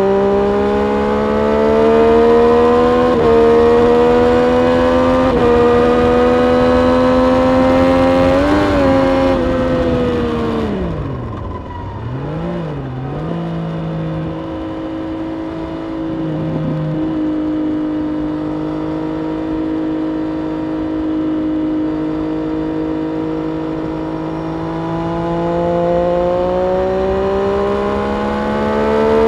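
Triumph Street Triple RS's 765 cc three-cylinder engine under hard acceleration, the revs climbing through two quick upshifts. About ten seconds in it shuts off and the revs drop, with two short blips as it changes down. It then holds a low steady note for a while and pulls again near the end.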